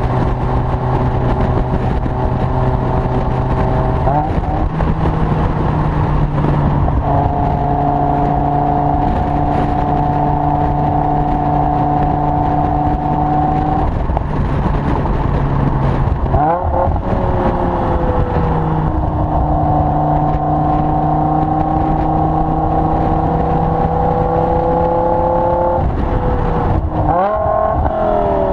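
BMW E60 M5's V10 breathing through a Dinan free-flow exhaust and sport mid pipe, running loud and steady under way. The note holds or climbs slowly, with three quick sweeps and shifts in pitch: about four seconds in, near the middle and near the end.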